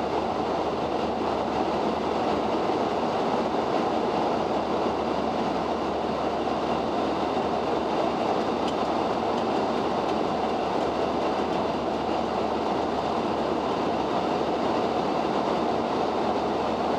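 Steady rushing noise of airflow and engines inside a Boeing 737-800 cockpit during the climb after takeoff, with the flaps retracted.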